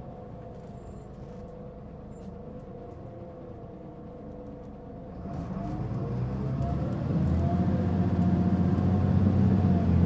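Mitsubishi Fuso Aerostar LKG-MP37FK city bus heard from inside: quiet running with a whining tone at first, then about halfway through the engine takes load and grows much louder as the bus accelerates, the whine rising with it. This bus is known for a considerable abnormal running noise.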